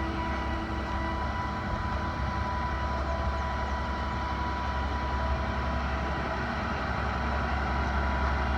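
Bucket truck's 7.8-litre Isuzu diesel engine running steadily, driving the hydraulics as the aerial boom is stowed, with a thin steady whine over the engine hum.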